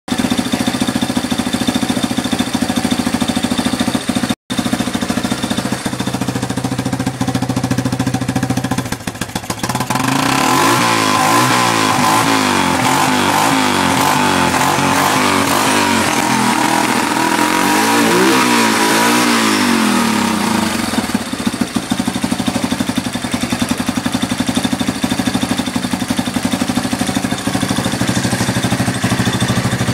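Yamaha Wolverine 350's single-cylinder four-stroke engine idling steadily, then revved up and down several times for about ten seconds from a third of the way in, before dropping back to idle.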